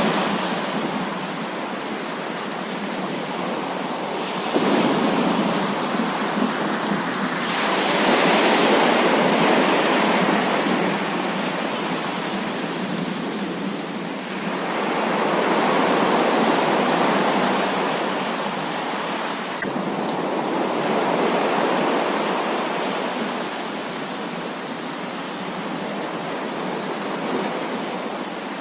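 Heavy rain falling steadily, with several rolls of thunder that swell and fade over a few seconds each, one breaking in sharply about four seconds in.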